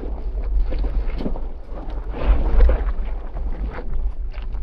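Off-road vehicle driving over a rutted dirt trail: a steady low rumble with wind buffeting the microphone and scattered short knocks and crunches.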